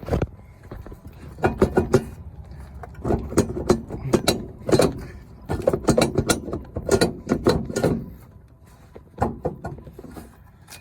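Irregular clusters of metal clanks and knocks as the Ford 5.4 3V's passenger-side exhaust manifold is worked loose, hanging up on a stud.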